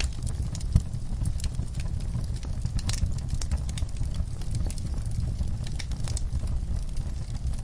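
Wood fire burning in a fireplace: a steady low rumble of flames with irregular crackles and pops from the burning logs, one sharper pop a little under a second in.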